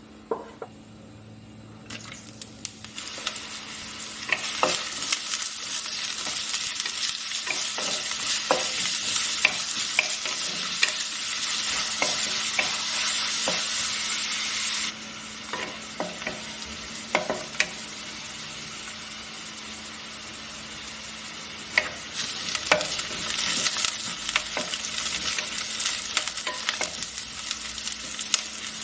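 Chicken frying in hot oil in a pan, sizzling while a spatula stirs it, with frequent clicks and scrapes of the utensil against the pan. The sizzle swells a couple of seconds in, falls away suddenly about halfway, and builds again later.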